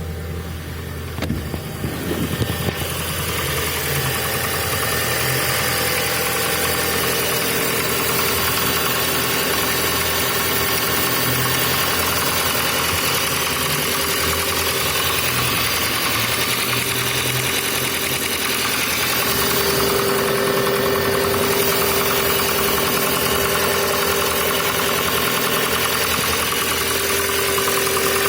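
Volkswagen Passat B5 engine idling from a cold start, running steadily with a knocking noise that shows only while the engine is cold.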